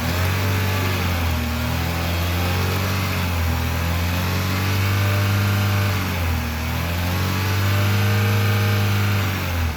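Vehicle engine running and being revved repeatedly, its pitch rising and falling several times, then dropping back near the end.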